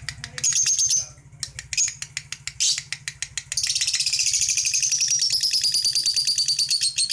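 Lovebird chattering: rapid high clicking twitters with short chirps early on, then a long unbroken stretch of shrill twittering from about three and a half seconds in, its pitch sliding slowly downward.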